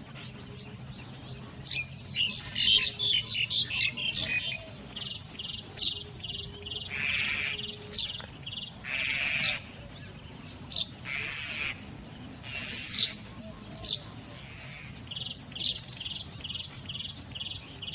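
Wild birds calling: a fast jumble of chirps about two seconds in, then runs of short, evenly spaced chirps, several harsh raspy calls about half a second long, and single sharp high notes every second or two.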